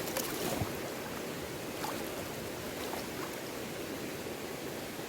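Steady rushing of a swollen river, running high after heavy rain, with a few faint knocks in the first two seconds.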